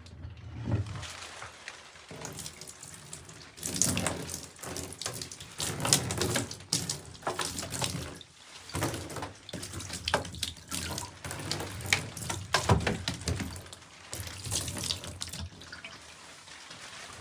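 Water running and splashing in a bathtub, coming in uneven bursts with many sharp splashes.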